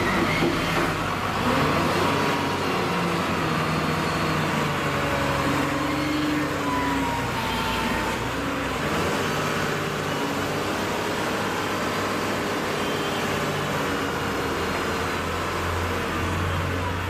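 Heavy diesel machinery running steadily, its engine note shifting in pitch now and then.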